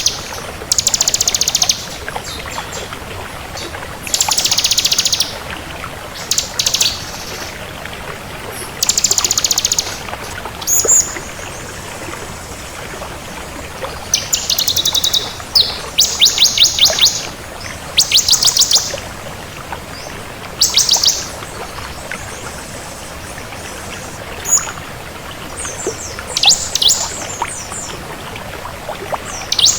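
Bar-winged prinia (ciblek kristal) singing: short, high, rapid buzzy trills, each about a second long, repeated every couple of seconds, with shorter, more varied chirps near the end, over a steady hiss.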